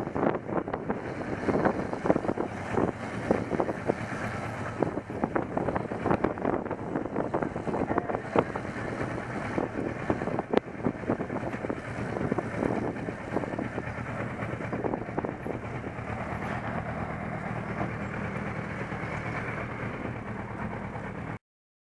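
Motorcycle engine running steadily while riding, under rough, gusty wind and road noise. The sound cuts off suddenly near the end.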